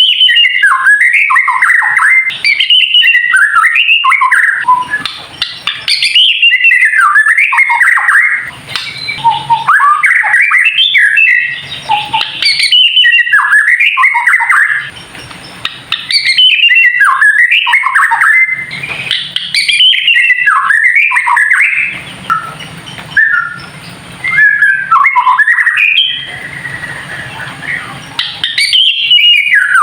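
White-rumped shama (murai batu) singing loud, fast bursts of chattering, rattling 'kretekan' phrases. Each burst lasts a second or a few and is separated by short pauses. This is a challenge song meant to rouse other shamas to sing.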